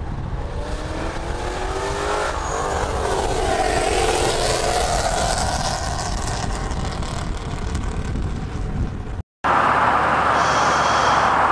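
Muscle car engine accelerating on the highway, its pitch climbing, dipping once as at a gear change and rising again, over steady road and wind noise; the sound cuts off abruptly about nine seconds in.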